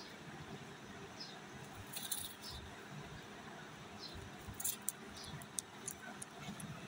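Faint, scattered short high-pitched clicks and squeaks from an Indian ringneck parrot, in small clusters over a low background rumble.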